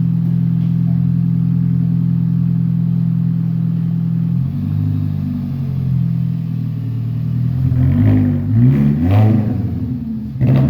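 2006 Mini Cooper S's supercharged 1.6-litre four-cylinder engine running through a straight pipe with only a resonator and no muffler, still cold. It idles steadily, then from about halfway in is revved, with two sharp blips of the throttle near the end.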